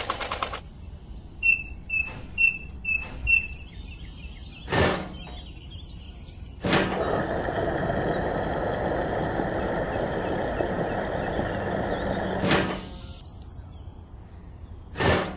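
Refuelling at a model fuel pump. First about five short, evenly spaced beeps, then a click. About two seconds later comes some six seconds of steady running hiss and hum of fuel flowing, which stops with a click. A thump follows near the end.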